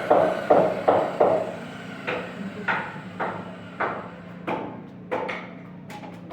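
Hammer blows on wood: a quick run of four strikes, about three a second, then slower, lighter blows roughly every half second or so.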